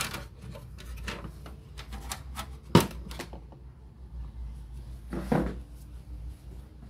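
Scattered clicks and knocks of small hard parts being handled during a cassette radio repair. One sharp knock comes about three seconds in, and a brief scraping rustle a little after five seconds.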